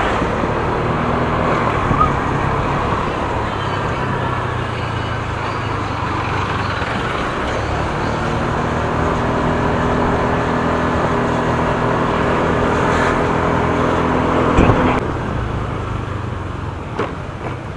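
Motor scooter engine running under way in road traffic, with road and wind noise. The engine note holds steady and strengthens in the middle, then a short thump about three-quarters through, after which the engine eases off.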